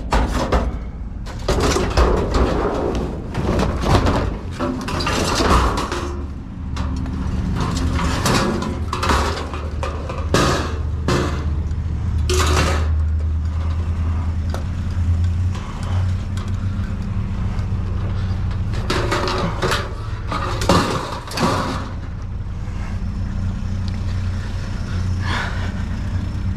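Trash being dug through and shifted in a dumpster: irregular knocks, scrapes and rustles, louder in the first half and again about 20 seconds in, over a steady low engine hum.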